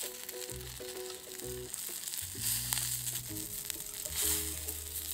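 Chicken sizzling on a small griddle plate over a gas canister camp stove, the hiss swelling louder twice, with background music.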